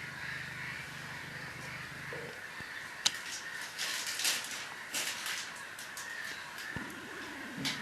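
Harsh bird calls: a quick run of short, rasping calls from about three to five and a half seconds in, over a faint background chorus of distant birds. A low hum runs under the first two seconds.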